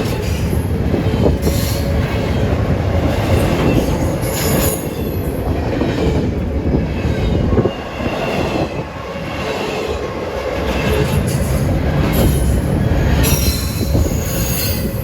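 Train rolling past close by: a steady rumble of wheels on the rails, with high wheel squeal coming and going.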